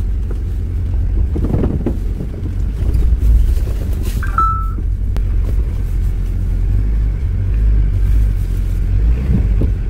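Jeep Wrangler engine and drivetrain rumbling low and steady, heard from inside the cabin while crawling slowly over a rocky dirt trail. A short high beep sounds about four seconds in.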